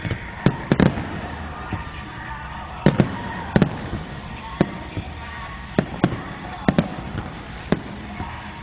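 Fireworks bursting overhead: a string of sharp bangs at irregular intervals, some in quick pairs.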